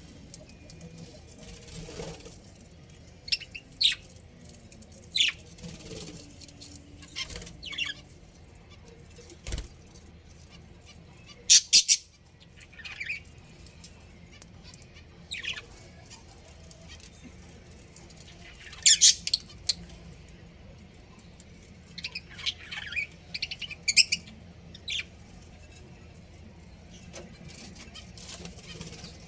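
Budgerigars chirping: short, sharp calls scattered irregularly, the loudest a quick cluster about twelve seconds in and another about nineteen seconds in.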